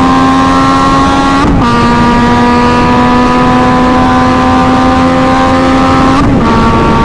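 Loud Yamaha MT-09 inline-three engine with its muffler end can removed, running at a steady pitch while riding, over rushing wind noise. The tone breaks briefly about a second and a half in and again near the end.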